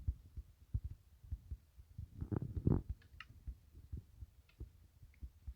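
Irregular soft low thumps and knocks of handling, with two louder bumps a little over two seconds in.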